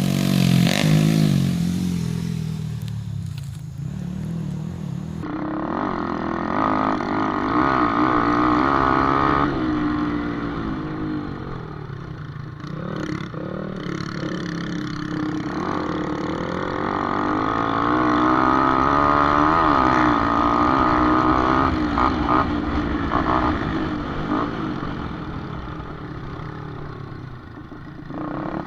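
Small underbone motorcycle engines racing in a cup cross, revving up and easing off again and again, their pitch and loudness rising and falling as bikes come and go, with a few short knocks along the way.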